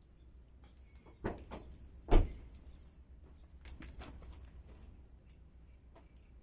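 Wood campfire crackling, with a few sharp pops; the loudest pop comes a little after two seconds in.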